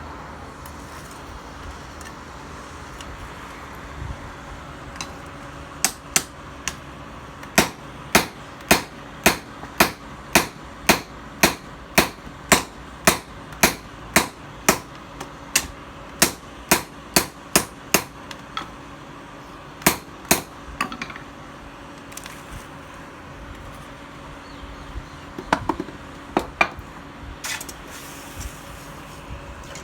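Hammer striking metal: a few scattered taps, then a steady run of evenly spaced blows at about two a second that stops, followed later by a short cluster of lighter strikes.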